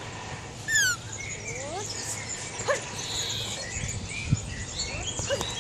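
Small birds chirping and calling repeatedly, with one loud descending call about a second in, over a steady low hum.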